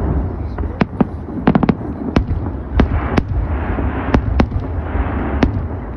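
Fireworks display: a rapid, irregular series of sharp bangs from bursting shells over a continuous low rumble.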